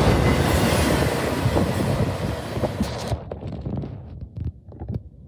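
Wheels of an intermodal freight train's last trailer-carrying flatcars rolling past on the rails. The rumble fades as the train pulls away, and the noise drops off sharply about three seconds in, leaving a few faint clicks.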